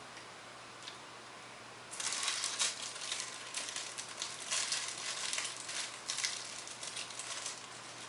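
Plastic snack wrapper crinkling as it is handled, probably opened around a Twinkie, in irregular crackles that start about two seconds in and run on for several seconds.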